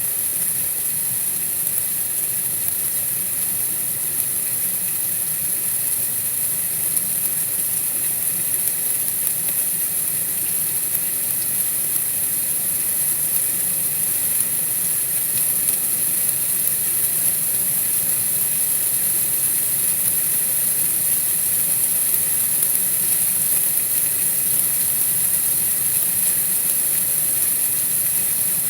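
Steady, unchanging high-pitched hiss of night-time backyard ambience, with a faint low hum beneath it.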